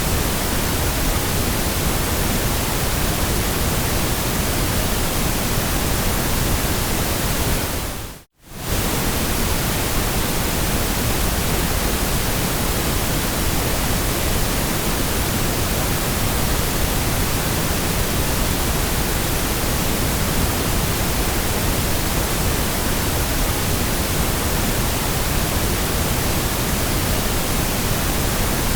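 Steady white noise: an even, unchanging hiss across all pitches, with a brief fade to silence and back about eight seconds in.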